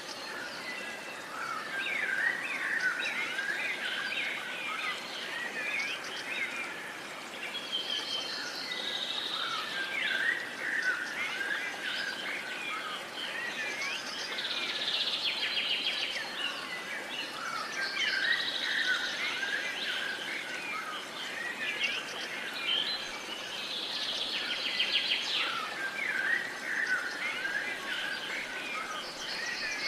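A chorus of songbirds, with many short chirps and whistles overlapping and a rapid trill recurring every few seconds, over a faint steady outdoor hiss.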